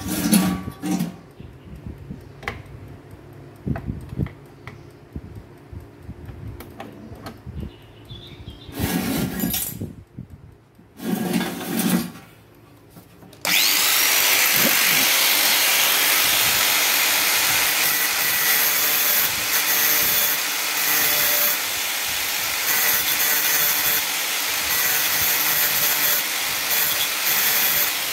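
Light handling clicks and knocks. About halfway through, a small high-speed electric grinder switches on with a quick rising whine and runs steadily and loudly.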